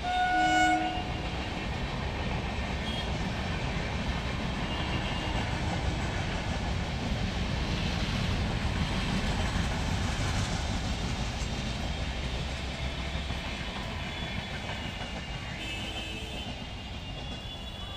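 Indian Railways express train of LHB coaches running past: a steady rumble with wheel clickety-clack, building to its loudest around the middle and easing off toward the end. A short horn-like toot sounds right at the start.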